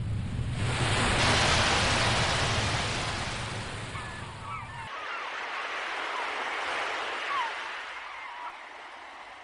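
Sea waves washing and surging, with several faint seagull calls in the middle. The low rumble of the surf cuts off abruptly about five seconds in, leaving a lighter hiss of water.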